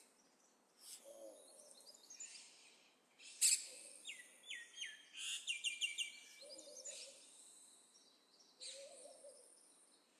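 Soft, low hooting calls repeating every two to three seconds, with high chirps and short clicks between them.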